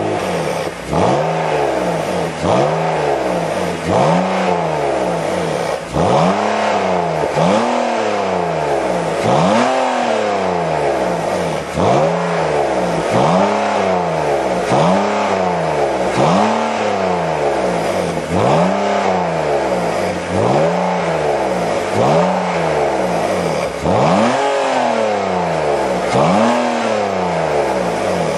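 BMW E39 530i's 3.0-litre inline-six revved over and over through an aftermarket Pico Sound variable exhaust. Each rev climbs in pitch and falls back, about once every one and a half to two seconds.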